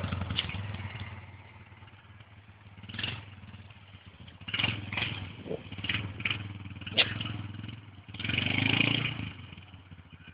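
Yamaha Bear Tracker quad bike's engine running steadily, with short sharp noises over it and a louder, rougher surge about eight seconds in.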